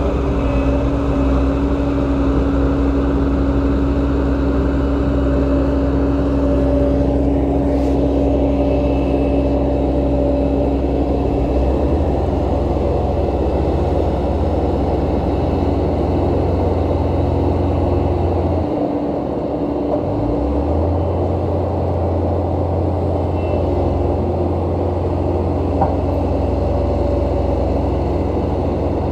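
Diesel engine of heavy earthmoving machinery, a bulldozer or excavator, running steadily under work. Its low engine note shifts about twelve seconds in and dips briefly a little before twenty seconds, then settles again.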